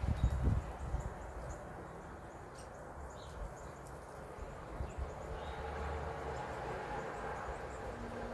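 Outdoor ambience with a few faint, short bird chirps over a low rumble, with a couple of low thumps near the start.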